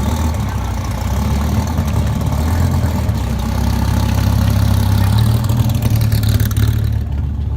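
Car engine running steadily at low revs, a deep, even hum.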